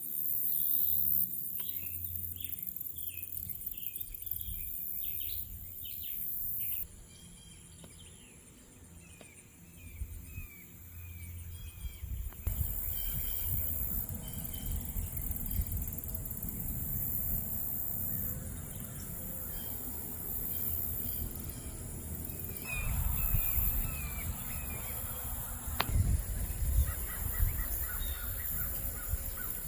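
Outdoor rural ambience of small birds chirping in short repeated calls over a steady high-pitched insect drone, with a low rumble underneath.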